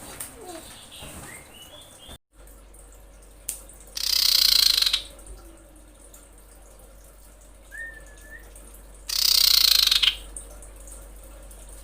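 Female common iora giving two harsh, hissing rasps, each about a second long and about five seconds apart, with a few faint short whistled notes between them: the female's call to draw in a male.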